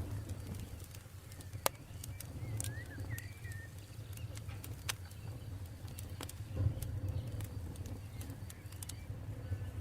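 Campfire burning with a low steady rumble and scattered sharp crackles and pops, one every second or two. A few short bird chirps about three seconds in.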